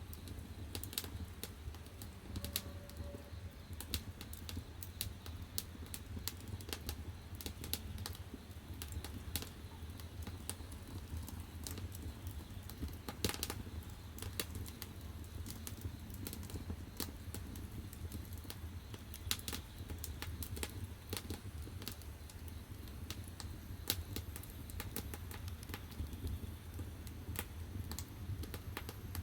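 Firewood burning in the firebox of a wood-fired bath heater: irregular sharp crackles and pops over a low steady rumble of the fire.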